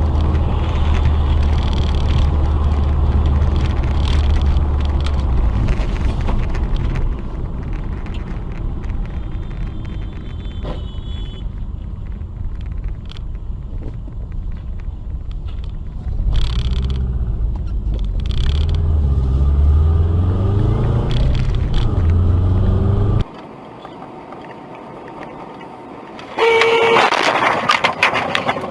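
Car on the road heard from inside: a steady low rumble of engine and tyres, with the engine note rising as it speeds up, then cut off abruptly. Near the end a loud burst of noise with a car horn sounding through it.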